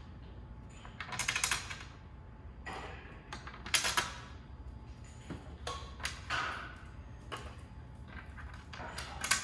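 Irregular knocks, clacks and short rattles of hand work on parts, with a low steady hum underneath. The loudest clatters come about a second in, around four seconds in, and just before the end.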